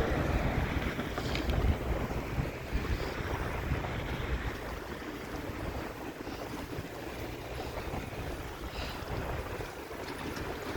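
Wind buffeting the microphone of a moving bicycle: a steady rushing noise with a deep rumble, a little louder in the first couple of seconds.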